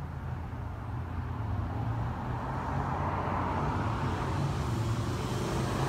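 Engine of a 1973 Chevrolet donk running steadily, its sound building gradually louder.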